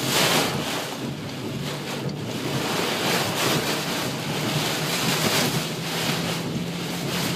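Driving rain and gusting wind beating on a minivan, heard from inside the cabin: a dense rushing hiss that swells and eases, over a steady low hum from the moving vehicle.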